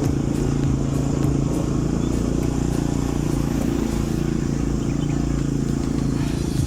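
TC-250 motorcycle's single-cylinder four-stroke engine running at a steady speed while riding, a constant low hum.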